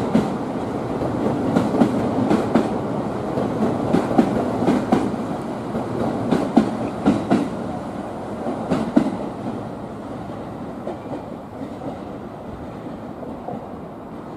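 Train wheels clattering over rail joints at low speed: a steady rumble with irregular click-clacks, often in pairs, fading over the last few seconds.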